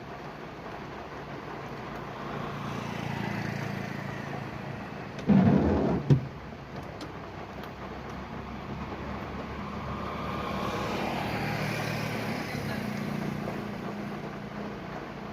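Car driving in the rain: steady engine and road noise that swells and fades twice. A loud, low thump comes a little past five seconds in and ends with a sharp knock.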